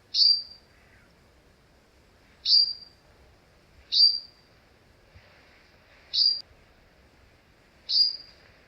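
Grey-headed bulbul calling: a short, high note repeated five times, about every one and a half to two seconds. This is the species' typical call.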